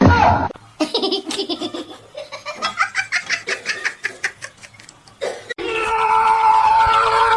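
A person laughing hard in rapid repeated bursts, followed near the end by a long, steady pitched sound lasting about two seconds.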